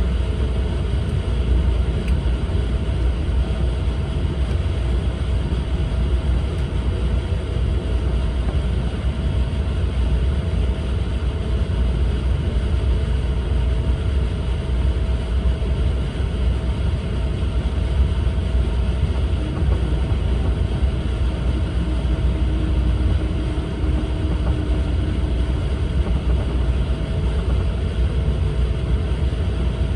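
Cabin running noise of an E4 series double-decker Shinkansen: a steady low rumble with a faint constant hum through it.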